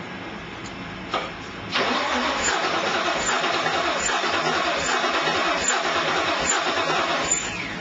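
Starter cranking a fuel-injected 347 small-block V8 on a first-start attempt. A click about a second in, then steady cranking for about five and a half seconds without the engine catching, stopping near the end.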